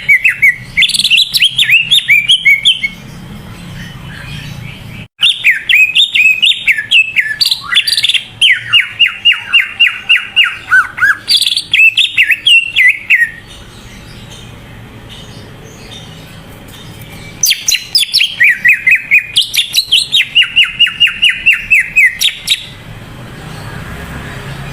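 Cucak ijo (green leafbird) singing in full song: three long bouts of fast, loud, repeated whistled notes and rapid trills, with pauses of a few seconds between them.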